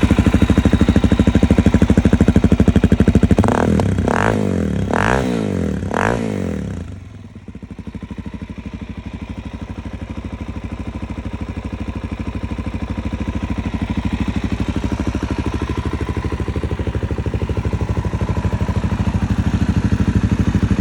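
Suzuki DR-Z400SM's single-cylinder four-stroke engine idling, blipped four quick times in a row about four to six seconds in, then settling back to a steady idle.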